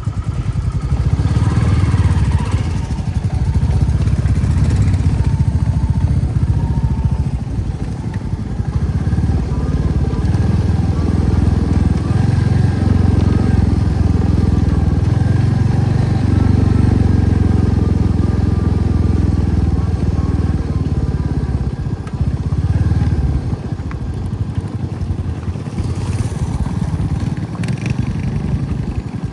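Motorcycle engine running with a continuous low rumble that swells and eases, dipping a few times near the end.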